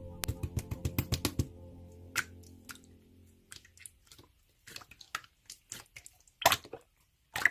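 Slime being worked by hand: a fast run of sticky clicks and pops in the first second and a half, then scattered single squishes and pops with quiet gaps between. Background music fades out over the first few seconds.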